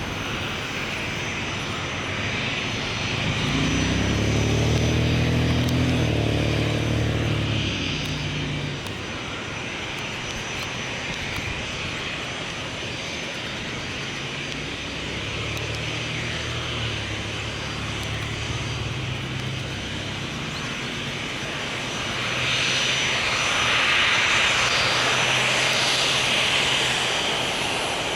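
Jet engines of a Rutaca Airlines Boeing 737-300 (CFM56-3 turbofans) running at low power as the airliner arrives on the ramp. A low hum swells about four to eight seconds in, and a louder hissing rush rises near the end.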